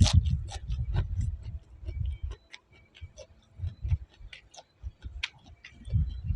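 A person chewing crunchy fried chicken up close, with many sharp irregular clicks and crunches and low thuds from the chewing.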